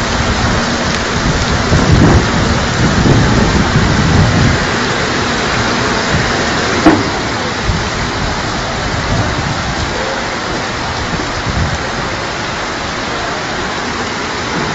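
Heavy rain pouring steadily, with low rumbling from about two to four and a half seconds in and a single sharp crack about seven seconds in.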